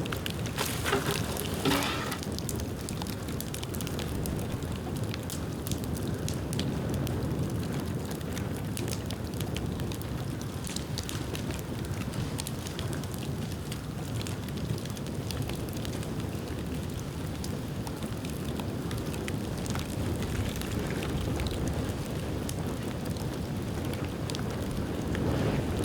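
Bonfire of dead bamboo burning: a steady rush of flame with many small crackles throughout, and a short burst of louder crackling about one to two seconds in.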